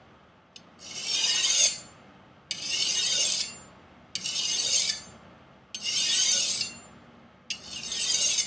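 Five rasping strokes of a Chinese chef knife's steel edge drawn across a Fallkniven DC4 pocket whetstone, each about a second long, some starting with a light click as the blade meets the stone. The strokes are removing a rolled-over, micro-chipped factory edge.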